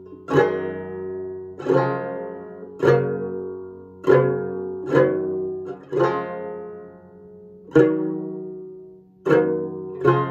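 Banjo chords struck one at a time, about nine in all, roughly one a second. Each chord rings out and fades before the next shape is played, rather than in the song's full rhythm.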